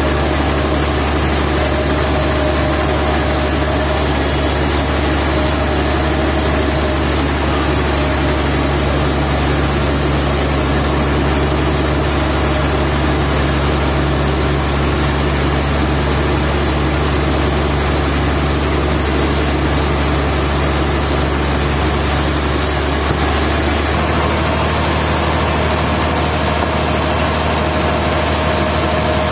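Sawmill machinery's engine running steadily, with a slight change in its tone about three-quarters of the way through.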